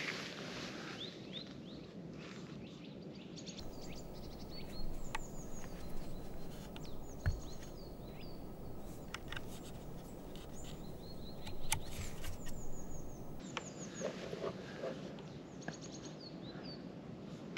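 Small birds chirping in a winter woodland: repeated short, high, downward-sliding calls over a steady background hiss, with a soft knock about seven seconds in.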